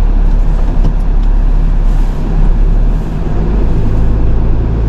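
Truck engine idling, a loud steady low hum heard from inside the cab. About three and a half seconds in, the engine note steadies into a firmer, deeper hum.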